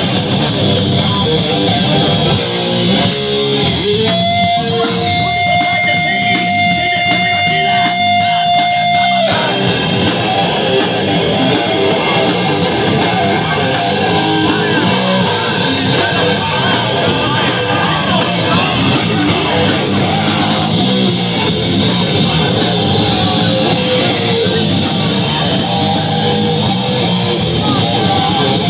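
Live rock band playing, with electric guitars and drums. About four seconds in, a single held note rings out steadily for about five seconds before the full band comes back in.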